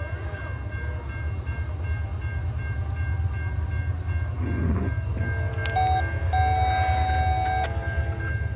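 Norfolk Southern diesel freight locomotives rumble steadily as the train approaches. About six seconds in, the air horn gives a short blast, then a longer one of about a second and a half. A rapid high ding repeats throughout.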